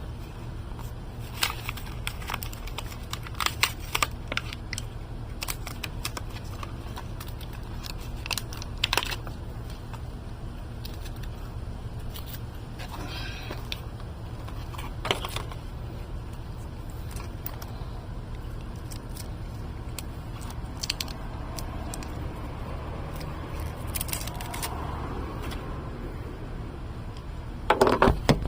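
Scattered clicks, clinks and scrapes of objects being handled, over a steady low rumble, with a louder clatter near the end.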